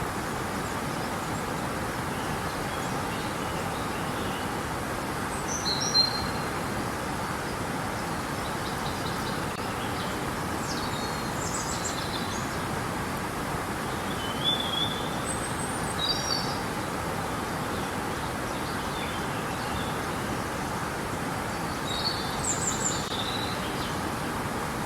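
Steady rush of flowing river water, with small birds chirping now and then: short high calls about six seconds in, around the middle and near the end.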